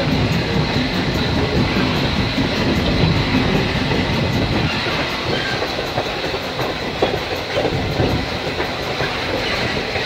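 Steam-hauled passenger train in motion, heard from aboard: a steady rumble of the cars rolling on the rails, with some clickety-clack from the wheels.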